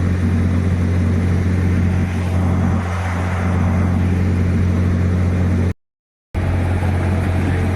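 Steady, loud engine hum with a strong low drone, cutting out abruptly for about half a second near six seconds in and then resuming.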